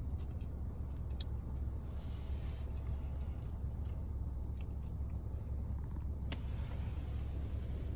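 Car engine idling, heard as a steady low rumble inside the parked car's cabin, with a few light clicks and taps from handling.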